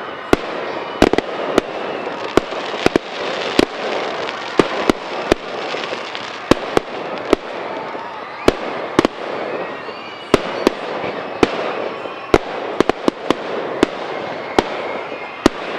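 Fireworks display: sharp shell bursts going off in quick, irregular succession, about one or two a second, over a continuous crackle and hiss from the burning effects, with a few faint whistles.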